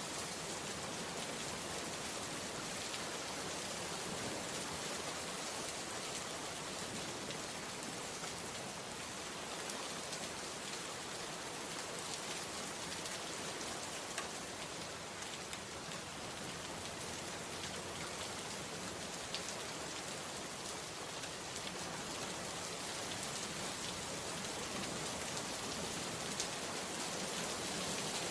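Steady rain falling, an even hiss of many drops, with a few single louder drop ticks now and then.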